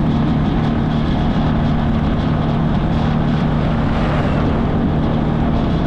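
Small motorbike's engine running at a steady cruising speed, a constant low drone mixed with wind and road rush.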